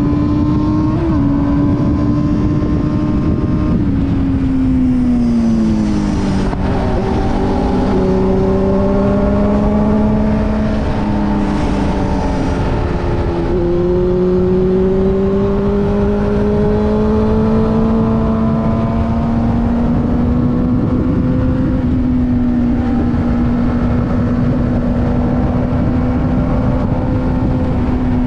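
Sport motorcycle engine running under way: the revs fall a few seconds in, climb slowly, drop suddenly about halfway through as if on a gear change, then climb again and hold steady.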